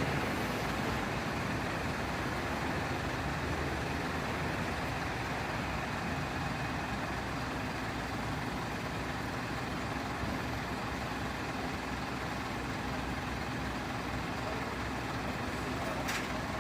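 A large truck's engine idling steadily, with a brief click near the end.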